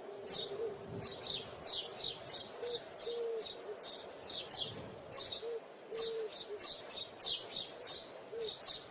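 Birds chirping: a run of quick high chirps, about two a second, with a few short low notes now and then.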